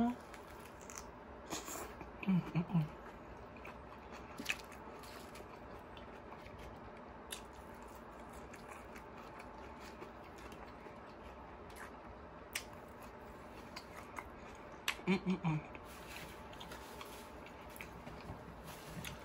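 Close-miked chewing and mouth sounds of a person eating a fried chicken sandwich with lettuce, tomato and onion, with scattered wet clicks and smacks. Short low hums come in two clusters, a couple of seconds in and again about fifteen seconds in.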